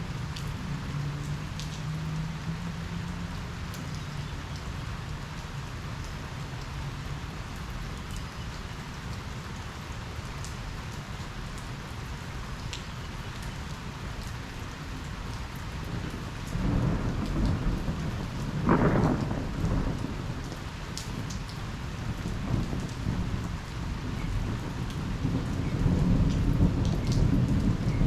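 Steady rain falling during a thunderstorm, with a roll of thunder that builds about sixteen seconds in, peaks a few seconds later, and rumbles on again near the end.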